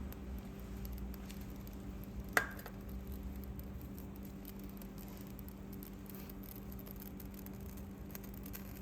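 A steady low hum, with one sharp click that rings briefly about two and a half seconds in.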